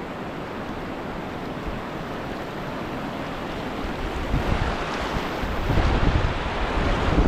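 Rushing river whitewater, growing louder from about four seconds in, with wind buffeting the microphone.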